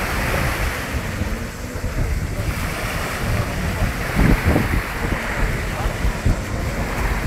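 Wind buffeting the microphone over the wash of sea water and waves, with a few louder low thumps about four seconds in.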